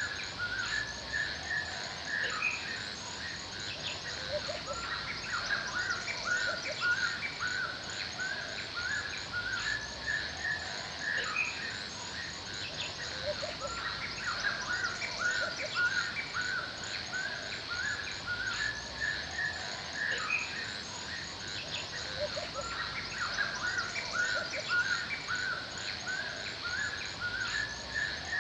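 Forest ambience: several birds chirping and singing in short repeated phrases, with a steady high insect-like trill and a soft background hiss.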